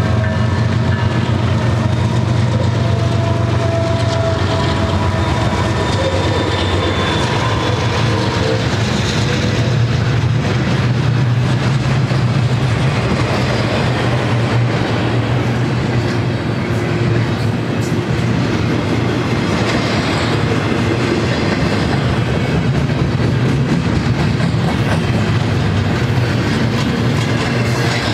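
BNSF double-stack intermodal train passing close by: the trailing GE ES44C4 diesel locomotives go by at the start, then the container well cars roll past in a loud, steady low rumble of wheels on rail.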